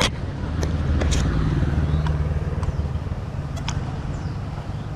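A vehicle engine running with a low, steady hum that is loudest between one and three seconds in and fades after, with several sharp clicks scattered through it.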